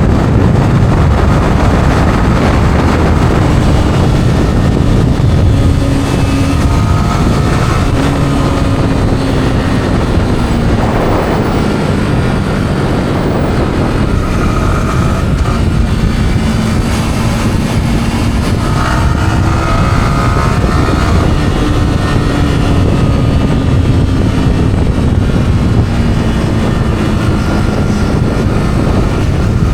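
Yamaha R15's single-cylinder engine through its stock exhaust, running under way on a ride, its note sliding slowly down several times and stepping back up as the revs change. Heavy wind rumble on the microphone underneath.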